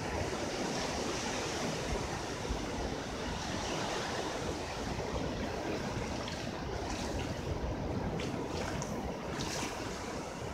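Ocean surf washing up the beach: a steady rushing of waves, with a few brief sharper hisses in the second half.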